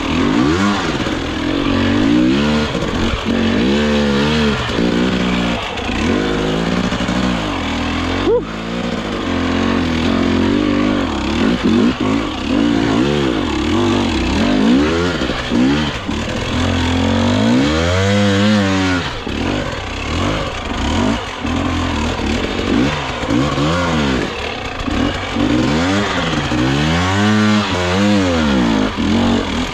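Dirt bike engine revving up and falling back over and over in short bursts of throttle, with a few longer, higher revs, as the bike is ridden through a technical hard enduro section.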